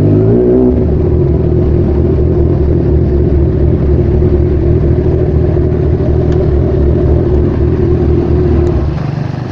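A vehicle engine running steadily at a constant, idle-like speed, loud and close, easing off slightly near the end.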